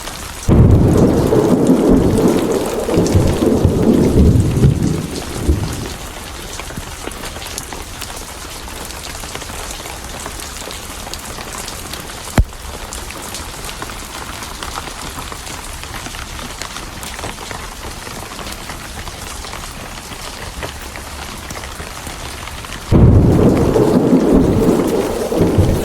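Steady heavy rain with two loud rolls of thunder: the first breaks in suddenly about half a second in and dies away after about five seconds, and the second breaks in near the end. A single sharp click sounds about halfway through.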